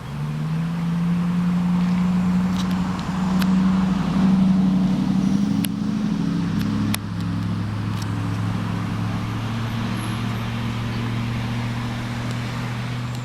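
A vehicle engine running with a steady low hum. Its pitch steps down about seven seconds in. A few sharp clicks sound over it.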